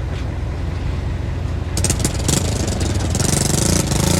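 Heavy diesel construction machinery running with a steady low rumble. About two seconds in, a dense rattling, scraping clatter of stone joins and is loudest near the end.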